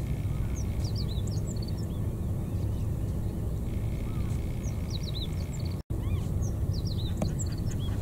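Small birds chirping in three short clusters of quick, high calls, about half a second, five seconds and seven seconds in, over a steady low outdoor rumble. The sound drops out for an instant a little before six seconds.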